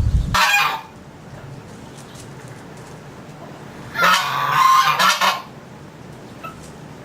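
Bird calling in loud honks: a short honk about half a second in, then a longer run of honks from about four seconds. A low rumble cuts off just before the first honk.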